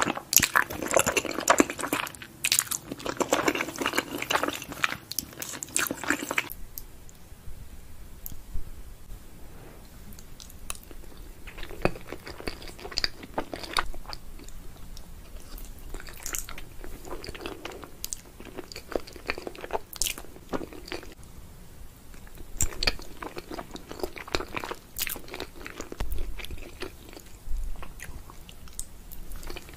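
Close-miked eating of cheesy baked lasagna: wet chewing and biting, dense and loud for the first six seconds, then sparser and quieter chewing.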